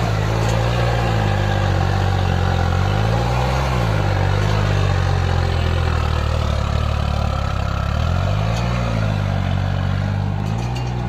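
Tractor diesel engine running hard at steady speed, its pitch rising briefly and falling back twice, about three and a half seconds in and again near eight and a half seconds.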